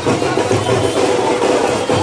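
Loud music with a driving drum beat, played through a DJ sound system's speaker boxes.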